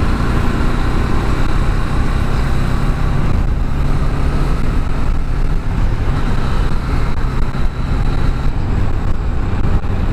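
Bajaj Dominar 400's single-cylinder engine running steadily as the motorcycle cruises at speed, mixed with wind noise.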